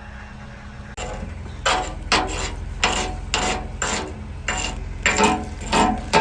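Repeated strokes of a hand tool working on steel machine parts, roughly two a second, starting about a second in after a steady low hum.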